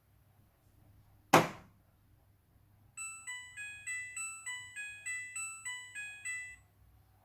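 Midea front-loading washing machine's end-of-cycle tune: a short electronic melody of about a dozen bright beeps over some three and a half seconds. It is preceded, about a second in, by a single sharp clunk.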